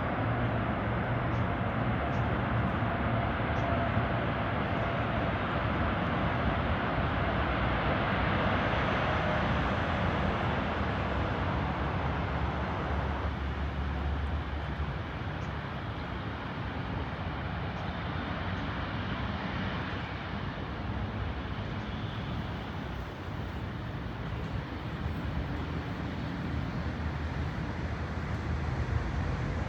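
Jet airliner engines: a steady wide rush with a faint whine over it in the first several seconds, louder for about the first half and easing off from about halfway through.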